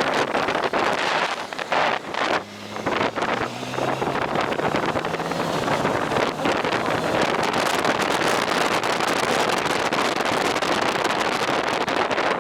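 Wind buffeting the microphone on a moving motorcycle, a loud steady rush. About two seconds in the wind drops briefly and the engine's low steady note comes through before the wind noise covers it again.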